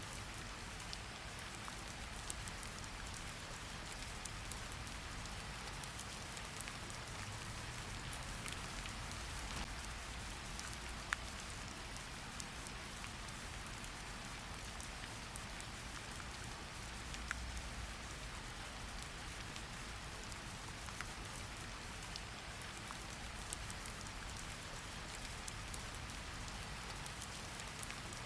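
Steady rain falling on a surface: an even hiss with scattered sharp drips of single drops and a soft low rumble underneath.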